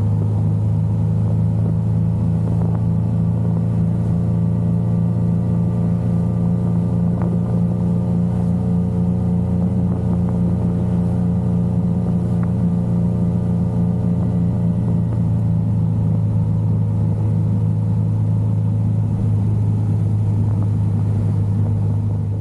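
Yamaha XSR900's inline three-cylinder engine running steadily at an even pitch, with no revving up or down.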